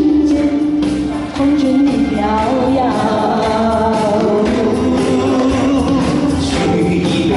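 A voice singing a song over instrumental accompaniment, with a short dip in loudness just over a second in.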